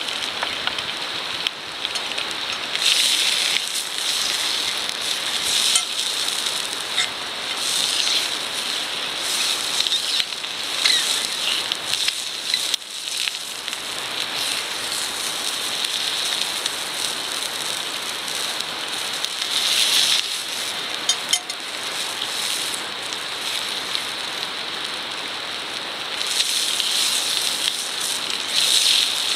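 Campfire burning in a fire pit: a steady hiss and rustle with scattered sharp crackles and pops.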